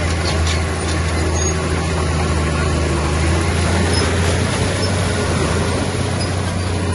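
Diesel engine of heavy earthmoving equipment running steadily under load as a low drone, with a few faint clicks about half a second in.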